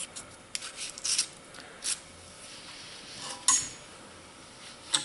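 A bore snake being pulled through a Glock 30 pistol barrel: soft rubbing and scraping, with a few sharp clicks and knocks as the barrel is handled, the loudest about three and a half seconds in.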